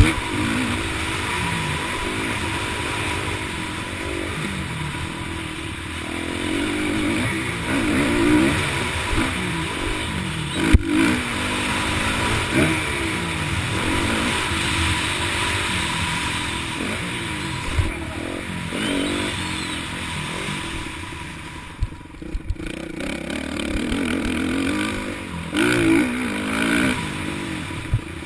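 Several motocross bikes revving up and down as they ride, their engine notes rising, falling and overlapping, with a sharp knock partway through and a short lull about three quarters of the way in.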